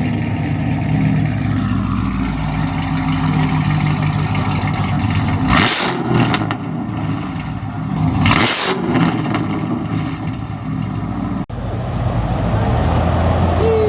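Car engine running with a steady low drone, broken by two loud sharp blasts about three seconds apart; an abrupt break near the end gives way to another engine running steadily.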